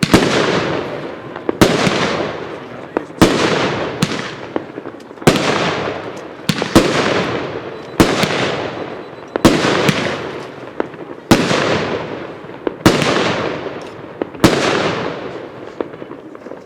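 Big Rose firework cake firing shot after shot, about one every one and a half seconds, each a sharp, hard bang trailing off in a fading crackling rush.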